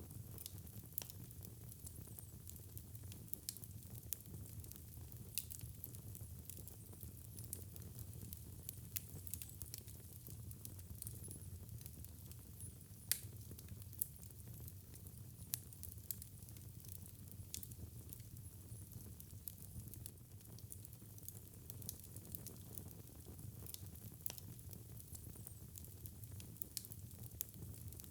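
Fireplace fire crackling, with frequent irregular sharp pops over a soft hiss and a low rumble, and one louder pop about thirteen seconds in.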